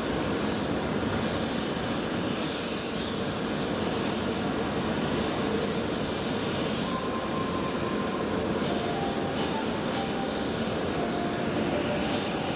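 E7 series Shinkansen trainset moving slowly along the station platform: a steady running noise from wheels on rail, with faint steady tones over it.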